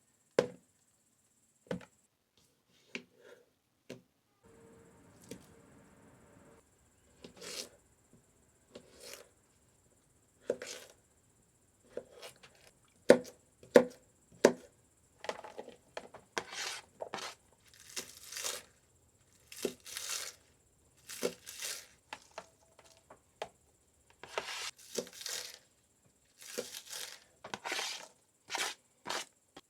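A run of short, irregular scraping and tearing strokes from hands working food, most likely a knife on fish or on a board while the catch is prepared for cooking. The strokes come sparsely at first and grow quicker and denser from about halfway.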